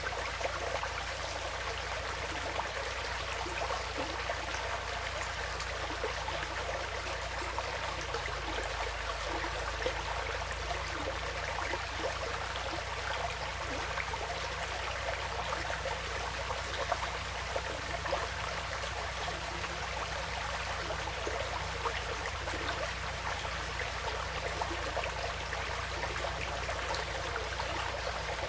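Small woodland stream flowing steadily, with continuous trickling and light splashing.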